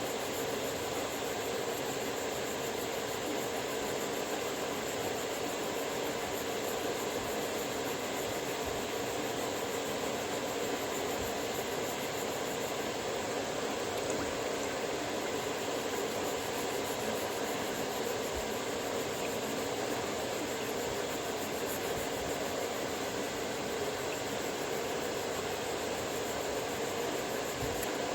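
Steady whirring and hissing of a powered sharpening machine running during chisel sharpening, even and unbroken, with no separate strokes.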